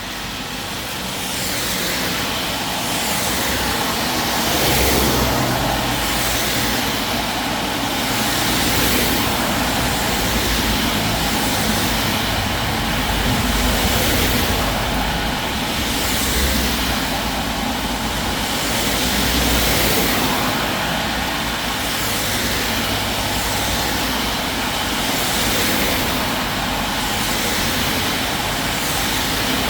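Rain falling with cars passing one after another on a wet road, their tyres hissing and swelling in loudness every few seconds as each goes by.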